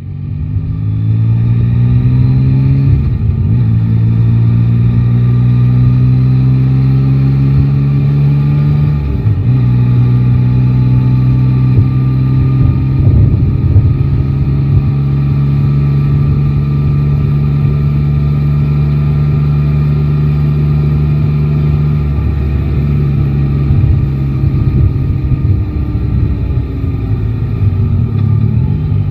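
Yamaha Tracer 9 GT's 890 cc inline-three engine accelerating, with the revs climbing and breaking at gear changes through the first ten seconds, then holding steady at cruising revs. The revs drop about two-thirds through.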